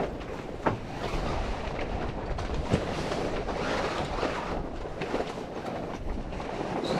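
A sailboat's mainsail coming down head to wind: the sail cloth flapping and rattling in the wind, with two sharp knocks, one about a second in and another a couple of seconds later.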